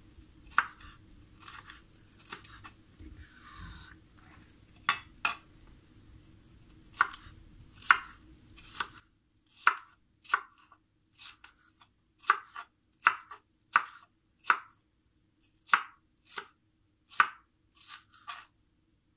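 Kitchen knife cutting a bell pepper on a cutting board: irregular sharp chops, roughly one a second, some in quick pairs, as the pepper is sliced into strips.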